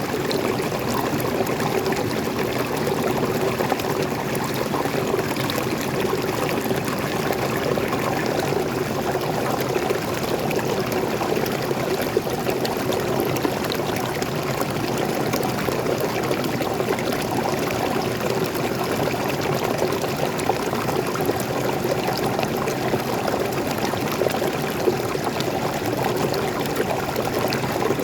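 Small waterfall pouring and splashing steadily, a continuous rush of flowing water.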